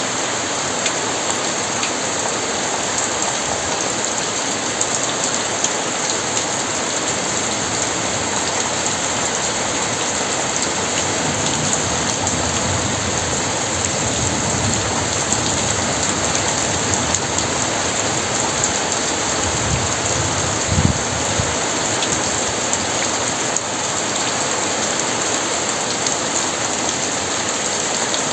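Very heavy rain falling in a steady, dense hiss. Low thunder rumbles in under it about halfway through, with a couple of short, louder low surges a little later.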